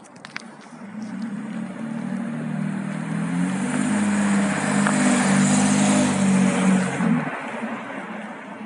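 Jeep Grand Cherokee WK's 3.7-litre V6 running through a straight-through exhaust with the catalytic converters removed, a glasspack and a Fortluft American Muscle muffler; the deep exhaust note grows louder over several seconds and then drops away about seven seconds in.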